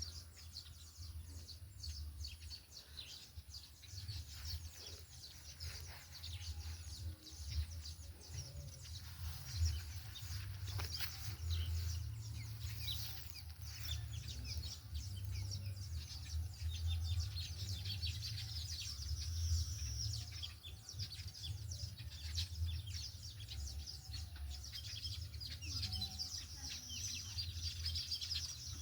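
Many small birds chirping continuously in fast high-pitched bursts, over a low, uneven rumble.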